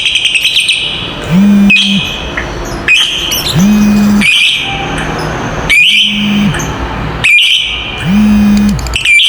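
Lovebirds chattering in the long 'ngekek' style: a fast stuttering trill near the start, then sharp squeaky calls every second or so. Under them a low droning tone comes and goes about every two seconds.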